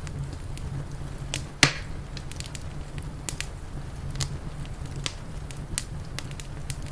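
Wood fire crackling: irregular sharp snaps and pops, one much louder pop about one and a half seconds in, over a low steady rumble.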